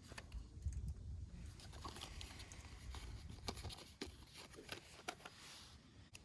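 Scattered light clicks and knocks, several a second, over a low rumble that fades out about halfway through.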